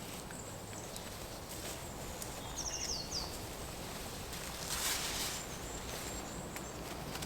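Woodland ambience with small birds singing a few short, high chirping phrases, one a quick run of falling notes about three seconds in, and a brief rustle about five seconds in.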